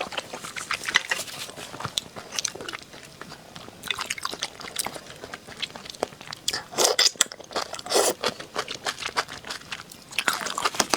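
Close-up eating sounds: irregular crunching bites and chewing, with the loudest crunches about seven and eight seconds in.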